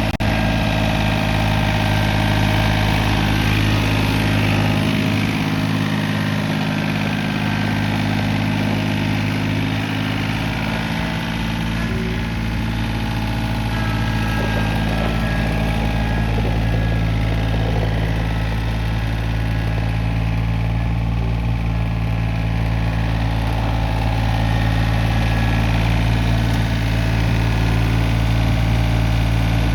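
John Deere 855 compact tractor's three-cylinder diesel engine idling steadily.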